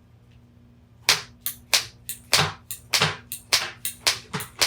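A fast run of sharp, hard strikes, about four a second, starting about a second in, as an Apple Watch/iPhone charger and its cord are battered to destroy them.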